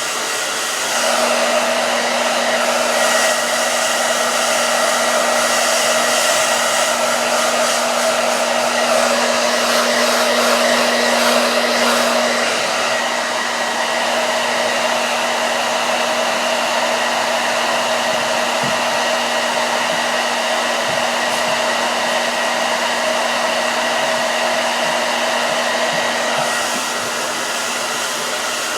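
Hair dryer running steadily, a constant blowing hiss with a humming whine; a low hum in it drops away about twelve seconds in.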